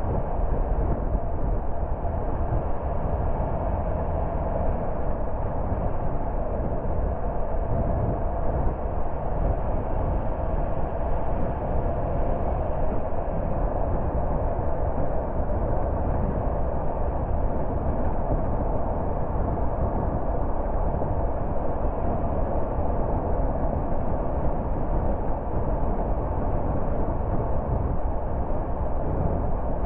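A car driving along at a steady pace: an even, unbroken road noise of tyres and wind with a low engine hum.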